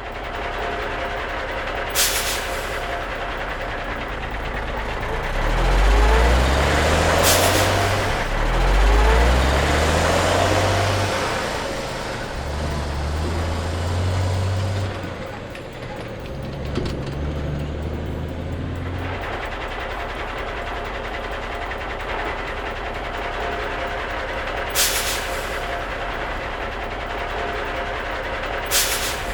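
Truck engine sound effect: a low hum that rises in steps several times, over a steady hiss, with four short sharp hissing bursts like air brakes.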